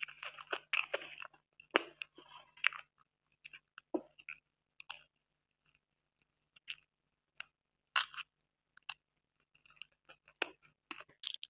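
Close-up chewing and wet mouth clicks from eating soft butterscotch cream cake. The clicks are dense for the first three seconds, then come singly and sparsely, and pick up again near the end.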